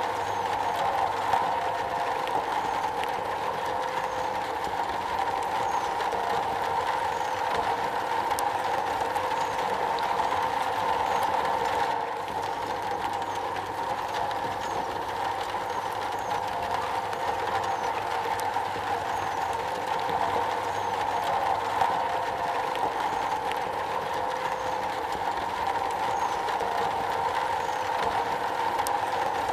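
Steady, dense rain drumming on a metal roof.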